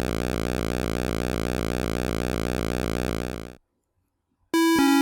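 Steady, evenly pulsing electronic sound that cuts off suddenly about three and a half seconds in. After a brief silence, electronic music with short struck notes starts near the end.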